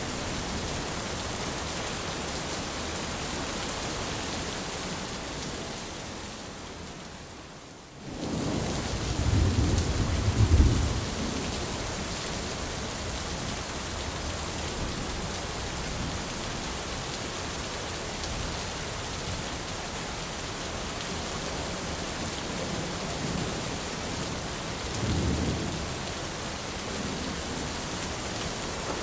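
Thunderstorm: steady heavy rain with thunder. The rain fades away briefly and comes back, followed by a loud rolling thunder rumble about a third of the way in and a fainter rumble near the end.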